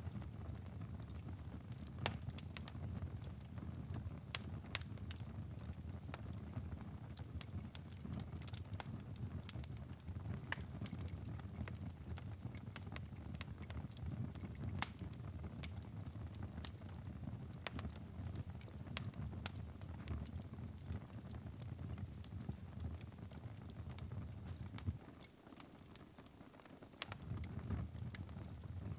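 Wood fire burning in a fireplace, crackling with frequent irregular sharp pops over a low steady rumble. The rumble drops away briefly a few seconds before the end.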